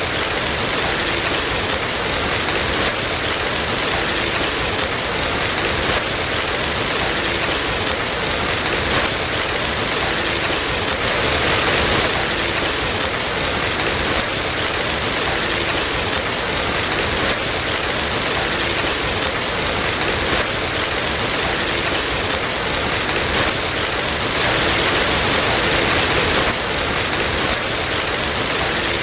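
Steady rain falling and pattering on a surface, swelling slightly twice.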